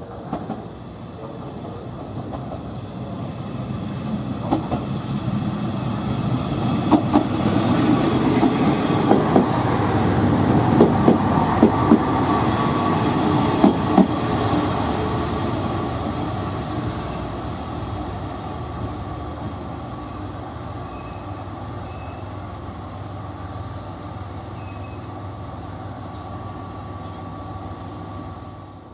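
A train passing close by, its wheels clacking over rail joints: the rumble builds to a peak about halfway through with a run of sharp clacks, then slowly fades away.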